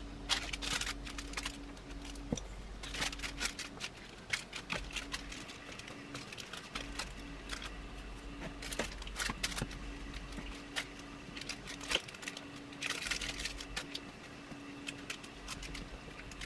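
Irregular light clicks and taps of hard sweets and chocolate chunks being handled and pressed onto cookie dough in a baking tin, with a faint steady hum underneath.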